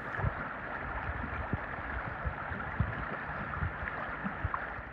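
River current rushing steadily over the riverbed, with a few faint knocks.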